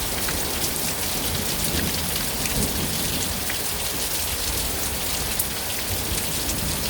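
Heavy rain pouring down steadily, with many sharp drop impacts ticking through the hiss.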